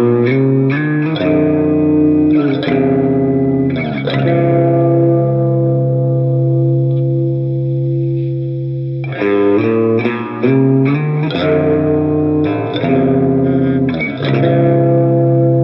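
Electric guitar through an Olinthus Cicada overdrive at a low-to-mid gain setting, into a Marshall JMP-style amp plugin, playing a rock chord riff. Quick stabbed chords give way about four seconds in to a chord left ringing for around five seconds, then more stabs and another held chord near the end.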